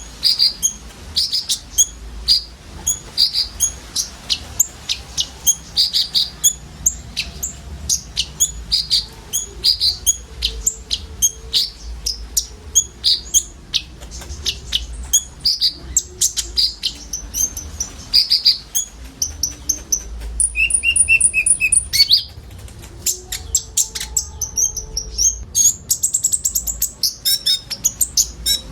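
Sunbird (konin) song: a steady run of rapid, high-pitched chirps and twitters, with a short phrase of held, ringing notes about two-thirds of the way through.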